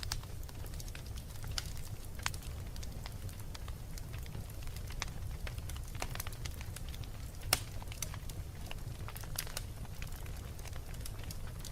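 Wood fire burning in a fireplace: irregular sharp crackles and pops over a steady low rumble, with one louder pop about halfway through.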